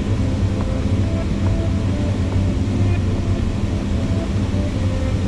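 Diesel excavator engine running steadily with a deep low hum.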